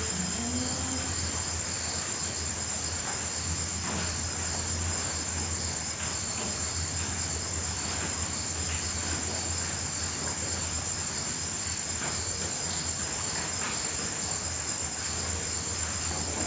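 Night field crickets trilling continuously in a steady high-pitched chorus, over a steady low hum.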